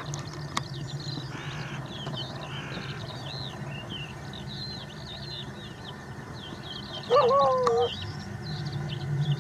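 Small birds chirping continuously in quick, sweeping notes. About seven seconds in, one loud drawn-out animal call lasting under a second stands out above them, over a steady low hum.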